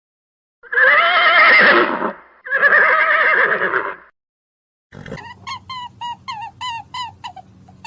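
Horse whinnying: two long, quavering neighs one after the other. From about five seconds in, a different animal gives a quick run of short, repeated calls, about three a second.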